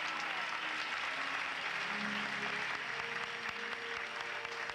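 Audience applauding, with music playing softly underneath.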